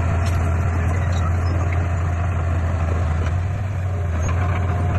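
Heavy diesel engine of earthmoving equipment running steadily with a low, even drone.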